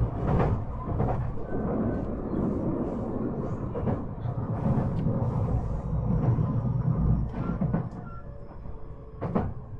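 Inside a JR 223-5000 series electric multiple unit on the move: wheels rumbling and clattering on the rails, easing off about eight seconds in as the train slows toward its terminal stop, with a sharp click near the end.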